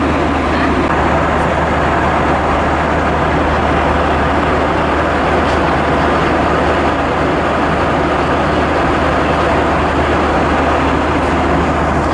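Steady cabin noise inside an Airbus A320-232 airliner in flight: an even rush of airflow over a constant low engine hum, unchanging throughout.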